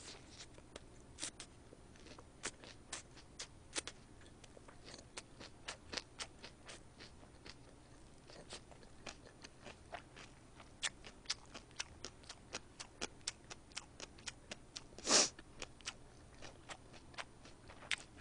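Close-miked chewing of a mouthful of lettuce-wrapped spicy stir-fried pork and kimchi: irregular small wet clicks and crunches, a few a second, with one louder, longer mouth noise about fifteen seconds in.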